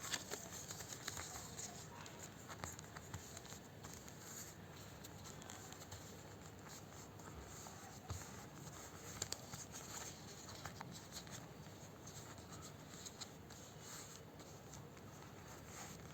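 Origami paper being handled and folded by hand: soft rustling with scattered light clicks and taps as the paper is creased.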